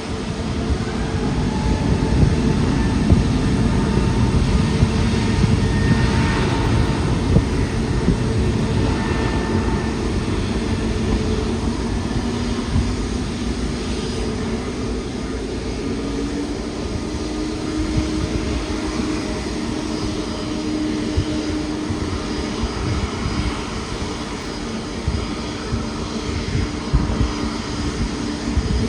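Jet airliner engines: a loud deep rumble with a steady whine over it, swelling about two seconds in and slowly easing off as the aircraft passes.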